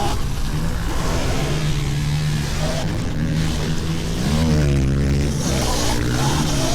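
Small pit bike engines running on a track, with one engine's pitch dropping and then rising again about four to five seconds in.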